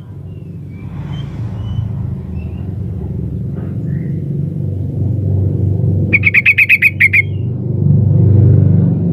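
Yellow-vented bulbul (trucukan) calling, the female's call used to lure males. A few faint short notes come first, then about six seconds in a loud, rapid chattering run of about nine notes lasting about a second. A low rumble swells underneath, loudest near the end.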